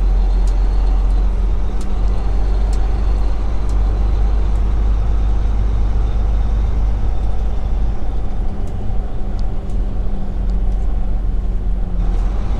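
Semi-truck diesel engine running steadily at low speed while the truck creeps along looking for parking, heard from inside the cab.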